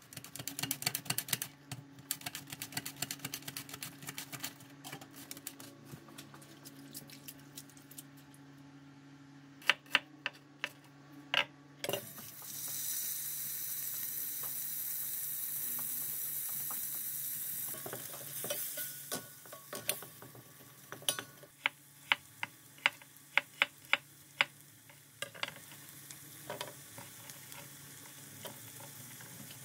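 Rapid light clicks and taps, then a sudden loud sizzle from a hot stainless steel pot lasting several seconds, followed by a wooden spoon stirring and scraping onions and garlic as they fry in the pot, with sharp taps against the metal.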